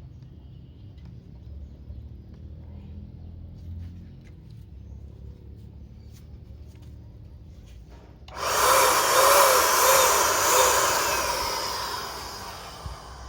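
Cordless electric paint spray gun switched on about eight seconds in: a sudden loud rush of blown air over a wavering motor whine, which then fades away over a couple of seconds.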